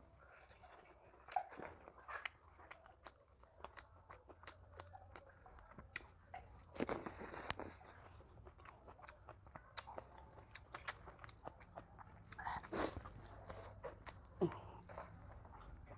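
A person eating: repeated crunching bites and chewing of food, with sharp clicks throughout and louder crunches about seven and thirteen seconds in.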